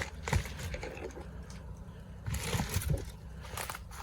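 Kicking at an object: a sharp knock a third of a second in, then a cluster of dull thuds with rustling about two and a half seconds in.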